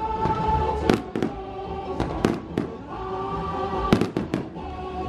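Aerial fireworks shells bursting, about ten sharp bangs in uneven clusters. Under them plays a musical soundtrack of theme-park tunes.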